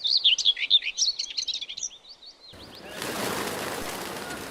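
Songbird singing a rapid run of high chirps and trills, cut off about two and a half seconds in by a steady rushing noise.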